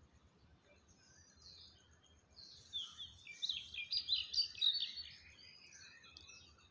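Wild birds calling: scattered faint chirps, then a burst of rapid, high twittering and chattering from about two and a half seconds in, loudest a little past the middle, tailing off toward the end.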